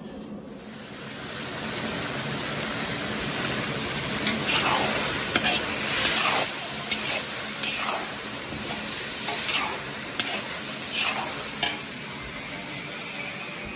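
Pieces of chicken sizzling as they fry in a large black wok. The sizzle comes up about a second in, and a ladle scrapes and stirs through them in half a dozen strokes.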